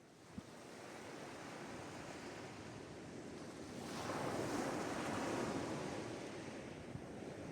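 Sea waves washing in as a steady rushing noise. It swells up from quiet at the start, and one wave surges louder about halfway through before easing back. A brief faint click comes just after the start.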